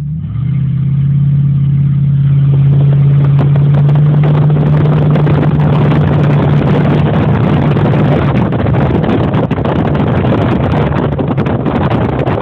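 A 2003 Jeep Grand Cherokee's 4.7-litre V8 pulling away with its muffler cut off, heard from inside the cabin: a loud, deep exhaust drone that swells over the first few seconds and then holds steady.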